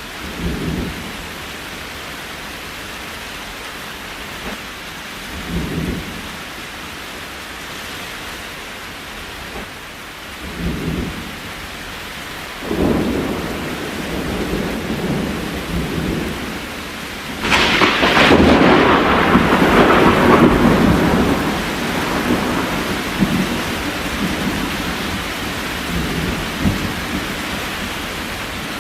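Steady rain with thunder: three short low rumbles, then a long roll of thunder that builds from about halfway, peaks with a sharper crack and slowly dies away.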